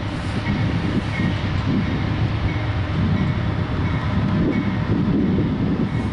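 A train running by: a steady, loud rumble of the train on the rails, with faint light ticks recurring under it.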